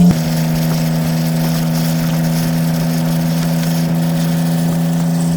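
Engine of a road-going drift racing boat running at a steady cruise: a constant drone that stays at one pitch, with road and wind hiss over it. It drops a little in level just after the start.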